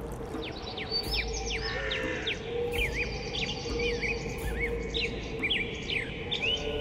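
Birds chirping, many short quick calls one after another, over a steady low musical drone.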